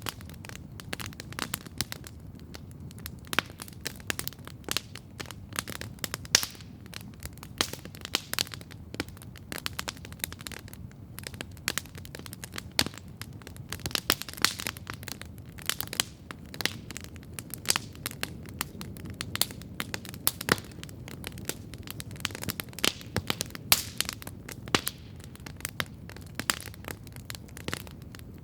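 Campfire crackling steadily, with many irregular sharp pops and snaps over a low, steady rush of burning.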